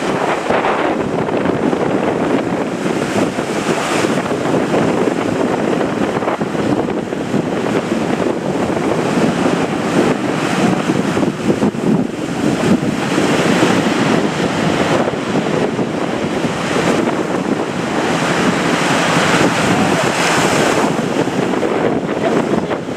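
Heavy surf crashing and rushing, with strong wind buffeting the microphone. The noise swells and eases in waves.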